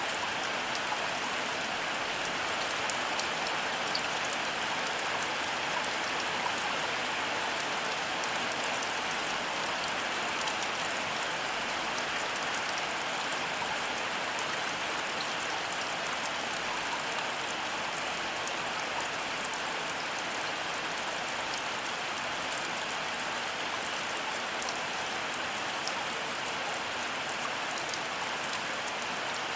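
Heavy rain falling steadily, an even hiss with fine drop patter scattered through it and no thunder.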